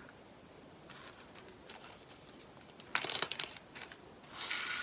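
Small plastic bag of diamond-painting drills crinkling as it is handled: a brief burst of crackles about three seconds in and a short rustle near the end.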